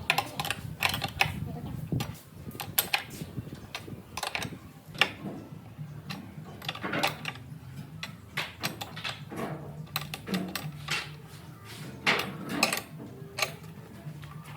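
Irregular knocks and clacks of hand work on wood and tools, spaced unevenly and at varying strength, over a faint low hum.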